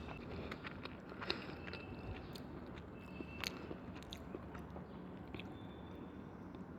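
A person chewing and biting food close to the microphone, with scattered sharp clicks.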